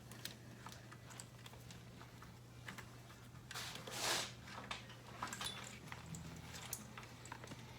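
Faint clicks and rustling from hands handling wiring, with a brief rasp about four seconds in, over a steady low hum.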